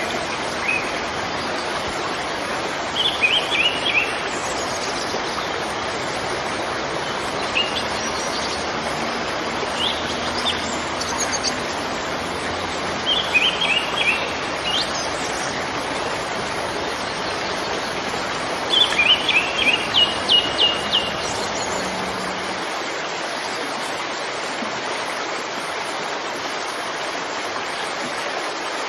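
Steady rush of water with a bird calling over it in short runs of quick, high chirps, five or so times. The longest run comes about two-thirds of the way through.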